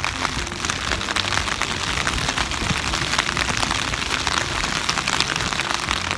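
Heavy rain falling, a steady dense hiss of countless drops striking a surface.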